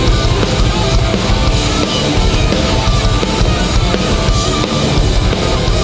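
A hardcore punk band playing live: loud distorted guitars, bass and pounding drums in an instrumental passage between vocal lines.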